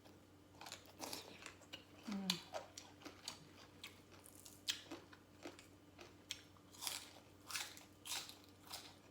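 Close-up crunching and chewing of a mouthful of crisp Lao papaya salad, with irregular crunches about two a second and a short low hum about two seconds in.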